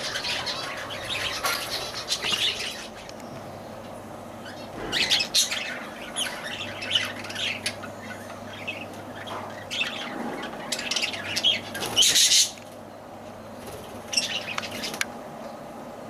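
Lovebirds chirping and squawking in repeated bursts, the loudest burst about twelve seconds in.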